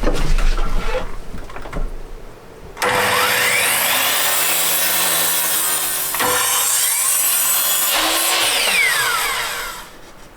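A power saw cutting wood, likely bed slats or supports, running loud and steady for about seven seconds starting about three seconds in. Shorter handling noise comes before it.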